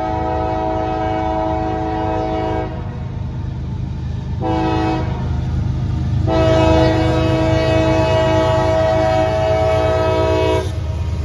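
Diesel locomotive's multi-chime air horn sounding over the low rumble of an approaching train. A long blast ends early on, then comes a short blast and another long one, the tail of the standard long-long-short-long grade-crossing signal.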